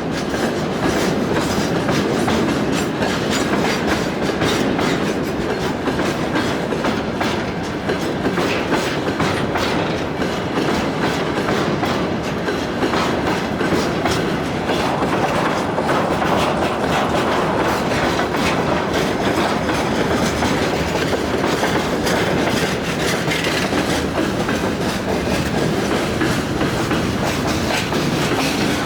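Freight train rolling past at speed: a steady rumble with a constant run of wheel clicks.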